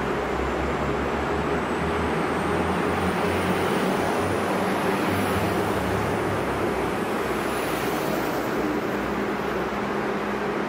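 Red DB Regio electric multiple unit rolling slowly along the platform: a steady rumble of wheels and running gear with a low hum and a faint high whine that rises slowly.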